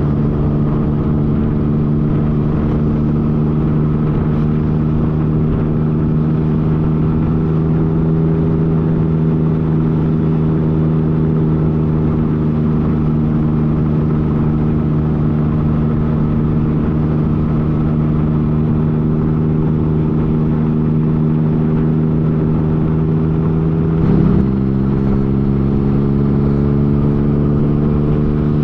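Yamaha FJ-09's three-cylinder engine running at a steady cruise, its note holding one pitch. Near the end a brief bump and a step to a slightly different steady pitch.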